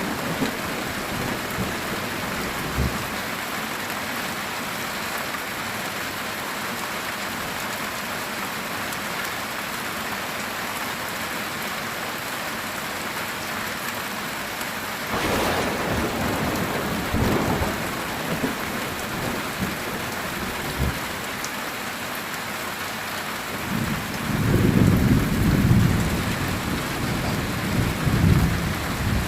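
Heavy rain falling steadily on a metal roof, with thunder: a crackling roll about halfway through and a louder low rumble near the end.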